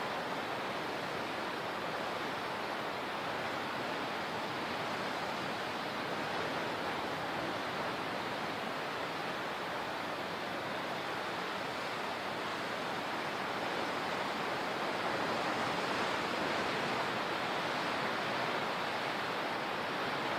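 Steady rushing of water, an even hiss that swells slightly about two-thirds of the way through.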